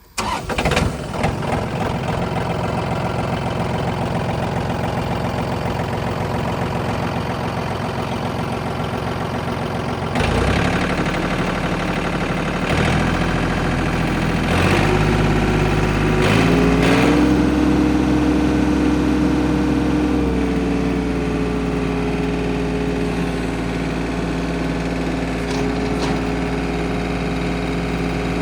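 John Deere 4210 compact tractor's three-cylinder diesel engine starting up and running steadily at idle, then revved up in several steps about ten seconds in, held at higher speed, and eased back a little about two-thirds of the way through.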